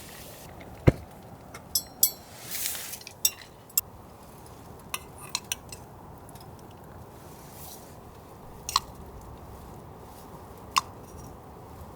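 Cooking utensils and cookware clinking and knocking against each other in scattered sharp strikes, the loudest a heavier knock about a second in, over a steady low hiss.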